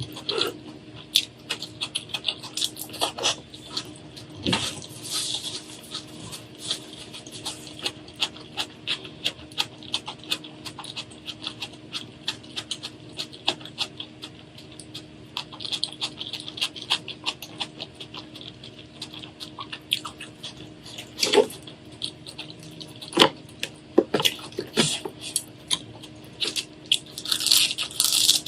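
Close-up eating sounds: steady chewing full of small wet clicks and crackles, with a few louder crunches, about 21 and 23 seconds in and again near the end.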